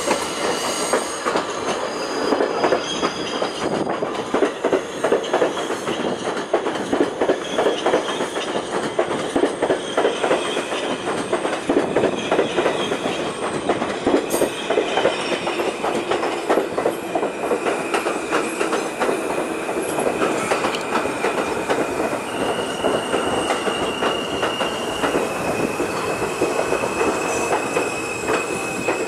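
R160 subway train running on the express track into the station: dense clatter of wheels over the rails, with the wheels squealing. From about ten seconds in, a high steady whine sounds, stepping up in pitch and then back down near the end.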